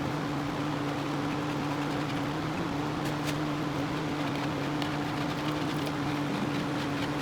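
Steady machine hum with a constant low drone, like a running fan or electric motor, and a few faint clicks.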